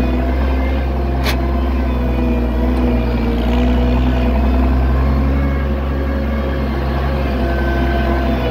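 Oliver 770 tractor engine running steadily, with one sharp click about a second in.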